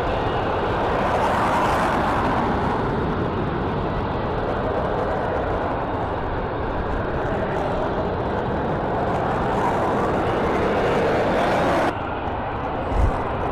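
Engine noise of a display airplane flying past, swelling and fading with a slow shift in pitch. Near the end it cuts off abruptly to quieter background, with a brief low bump just after.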